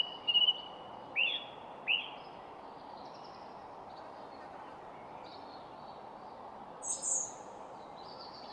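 Wild birds calling over a steady background hiss: a held whistled note at the start, two short dropping calls about one and two seconds in, faint chirps throughout, and a brighter high-pitched call near the end.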